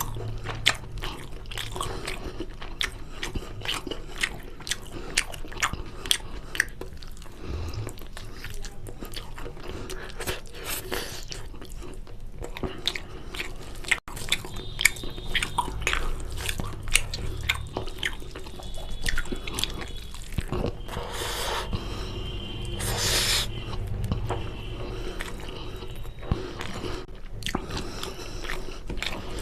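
Close-up eating sounds: chewing and biting on chicken curry and rice, with many quick wet mouth clicks and smacks.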